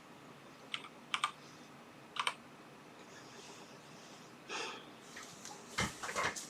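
A few light, sharp clicks and taps of small parts being handled on a workbench, spread out with pauses between them, a short soft rustle near the middle and a quick cluster of clicks near the end.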